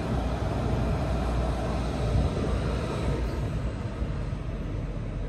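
Steady rumbling running noise of a moving train, easing slightly near the end.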